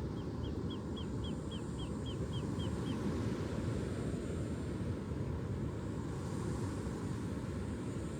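Steady low rumble of ocean surf. Over it, in the first three seconds, a bird gives a quick run of about eleven short, falling chirps, roughly four a second.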